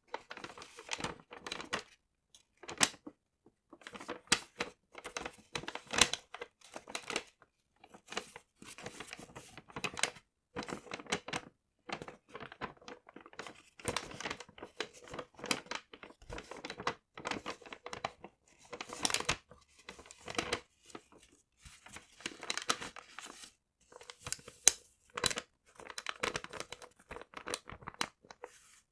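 Paper handled close to the microphone: irregular crinkling and rustling with sharp crackles, in short bursts separated by brief pauses.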